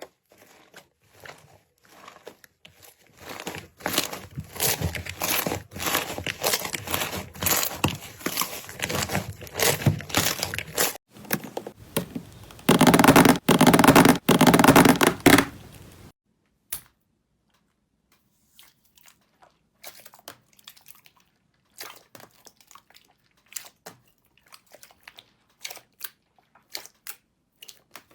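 Slime being squeezed and poked by hand, giving many crackling, crinkly clicks and pops. They come thick and fast through the first half, get loudest for a few seconds past the middle and stop abruptly, then thin out to scattered soft pops.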